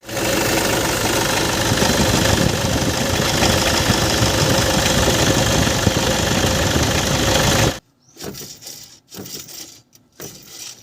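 Toyota Innova engine running with a steady hum and rough grinding from its alternator, the sign of a worn alternator bearing. The sound cuts off suddenly near the end, leaving quieter, irregular sounds.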